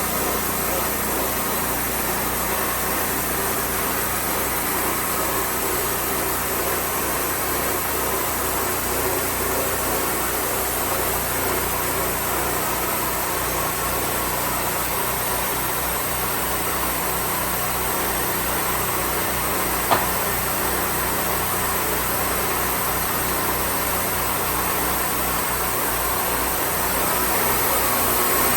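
Wood-Mizer portable band sawmill's engine running steadily, with one sharp click about twenty seconds in and the sound growing slightly louder near the end.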